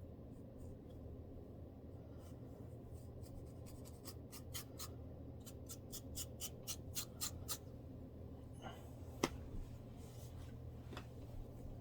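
Close-up scratching of dandruff on a scalp: a run of short, crisp scratch strokes, several a second, with one sharper click near the end, over a low steady hum.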